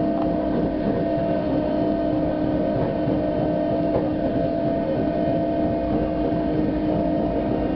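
Narrow-gauge electric mountain railcar running along the track: a steady rumble of wheels on rail with an even hum from its motors.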